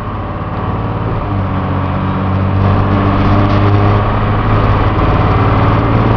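Cummins diesel engine of a step van running under way, heard from inside the cab together with road noise; it grows louder over the first few seconds, then holds steady.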